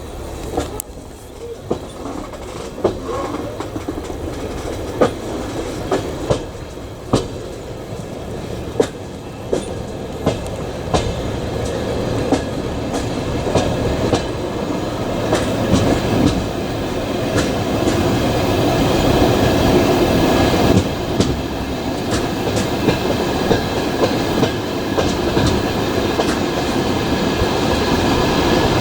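Passenger train running on the rails: steady wheel rumble with sharp clicks as the wheels cross rail joints, the rumble growing slowly louder.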